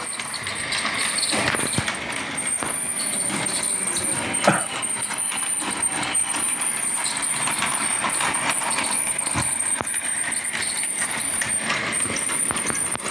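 Battery-powered toy bullet train running on its plastic track: a steady high motor whine with a constant rattle and small irregular clicks from the wheels on the track.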